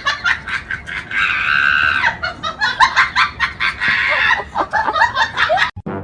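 Rapid squawking animal calls in quick succession, with one longer held cry about a second in.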